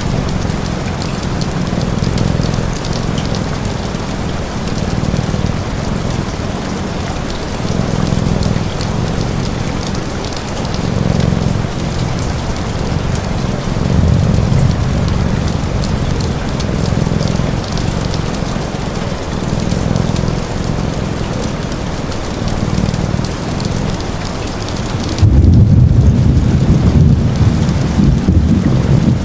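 Steady rain with a cat's low purr underneath, swelling and fading every couple of seconds. About 25 seconds in, a louder low rumble sets in.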